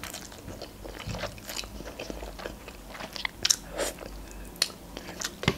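Close-miked eating sounds: a person chewing a mouthful of soft instant noodles, with scattered wet mouth clicks and smacks, a few sharper ones in the second half.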